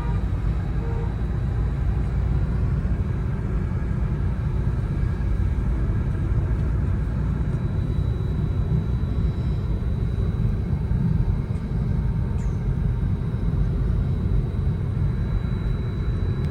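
Steady low rumble of a moving vehicle and road traffic, with a faint, steady high-pitched whine.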